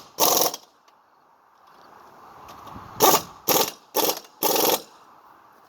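A power driver run in short bursts, running down the aluminium pump housing's bolts: two bursts at the start, then four in quick succession about three seconds in.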